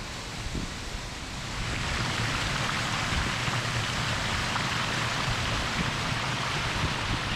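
Steady rushing and splashing water of a small waterfall on a beck, rising about two seconds in and then holding steady. Wind buffets the microphone as a low rumble underneath.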